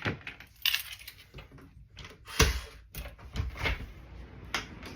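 A string of sharp clicks and knocks with light metallic jingling, the loudest a heavier thump about two and a half seconds in.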